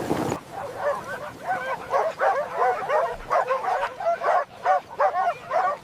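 Dogs barking and yipping excitedly in quick succession, several short high calls a second. Wind noise cuts off just before the barking starts.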